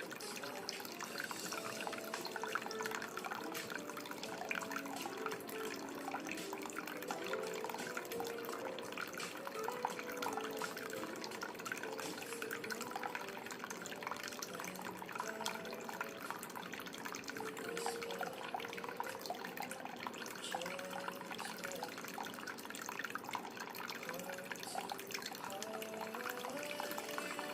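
Running water dripping and splashing in a steady trickle, with a soft melodic tune underneath.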